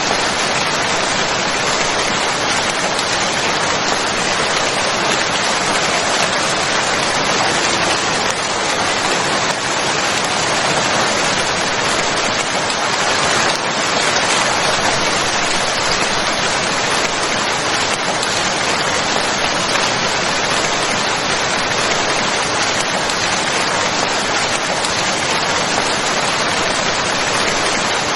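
Steady, even rainfall, a dense hiss of drops with no let-up.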